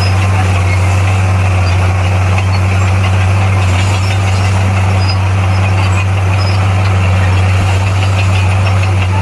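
Heavy earthmoving machine's diesel engine running steadily: a loud, deep, even drone that holds one pitch throughout.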